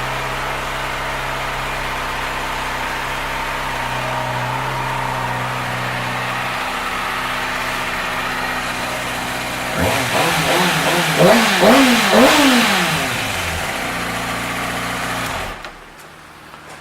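2012 Kawasaki ZX-6R Ninja's inline-four engine idling steadily, then revved in a few quick blips of the throttle about ten seconds in, settling back to idle before the sound cuts off near the end.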